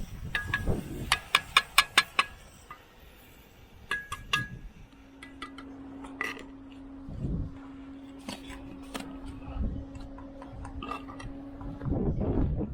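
Bricklaying work: a quick run of about seven sharp clinks, a steel trowel tapping on brick, then scattered single taps. A faint steady hum runs under the later part.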